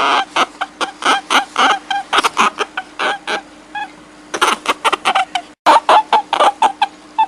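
A fast series of short, pitched animal calls, about four or five a second, over a faint steady hum, broken by a momentary dropout a little past the middle.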